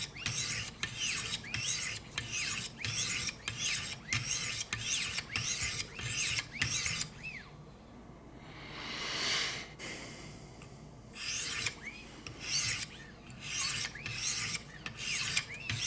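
Wicked Edge guided sharpener's 600-grit stones rasping along an S90V steel knife blade in quick, even strokes, about two a second. A short pause comes a little past the middle, then one slower, softer sweep, then the quick strokes pick up again.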